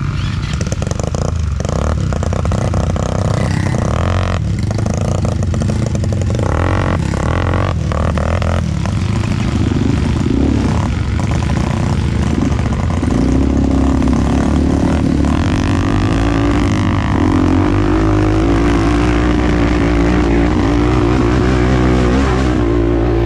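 ATV engine running under way, its pitch rising and falling with the throttle. There is a lot of knocking and rattling over roughly the first third.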